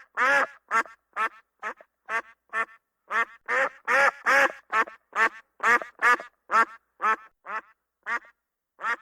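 An animal giving a rapid series of short, pitched calls, about two or three a second, with silence between each.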